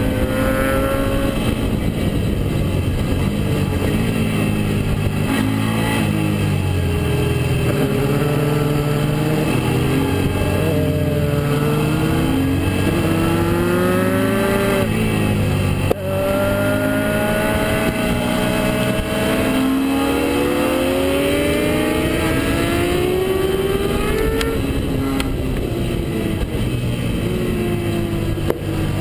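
Suzuki SV650S V-twin engine heard onboard at track speed, climbing in pitch under acceleration, dropping sharply at a gear change and falling away as it slows for corners, over steady wind rush.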